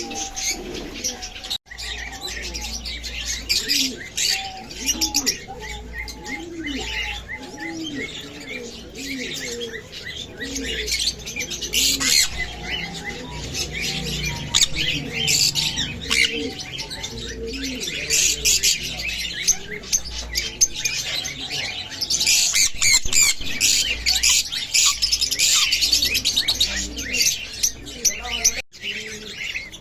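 A flock of small pet birds chirping and chattering densely, busiest in the second half. Underneath, during the first third, a lower call repeats about once a second.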